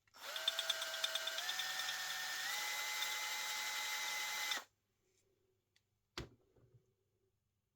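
Small electric power-tool motor, such as a drill, whining and stepping up in speed three times before cutting off abruptly. A single short knock follows.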